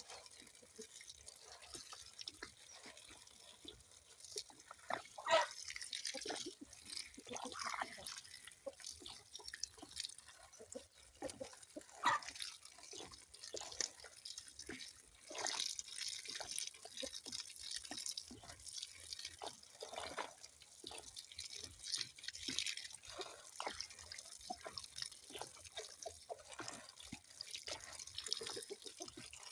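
Water dripping and trickling, with many irregular drops over a steady hiss and a couple of louder plops, about five and twelve seconds in.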